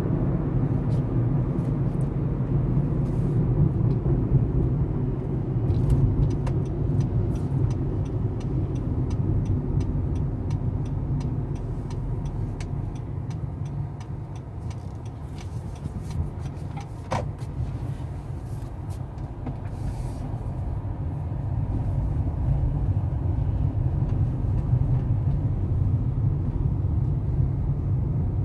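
A car driving: a steady low rumble of engine and road noise that eases a little midway and picks up again toward the end. Around a quarter of the way in there is a short run of quick light ticks, and a single brief sharp sound a little past halfway.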